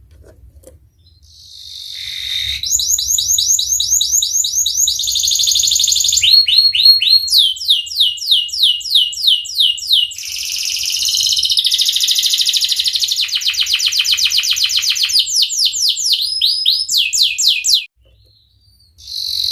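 Domestic canary singing one long song of rapid rolling trills, each a quick run of the same repeated note that switches to a new run every second or two. It starts a second or two in and stops shortly before the end.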